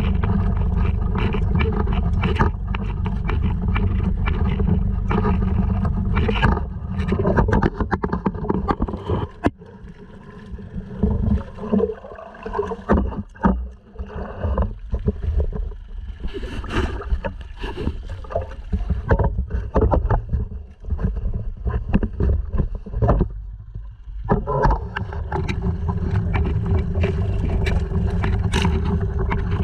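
Honda 2.3 hp four-stroke outboard running steadily on a sea kayak, with water splashing along the hull. About a third of the way in, the steady drone drops away to quieter, uneven splashes and knocks. The motor's steady note returns near the end.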